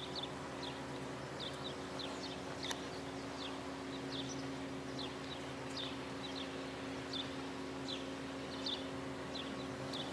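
A small bird calling with short high chirps, about two a second, over a steady low hum and the quiet open air of a links course.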